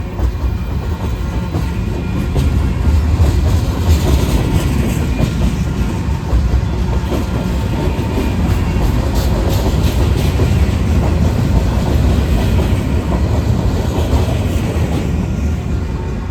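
Freight train rolling past: a steady, loud rumble of railcar wheels on the rails.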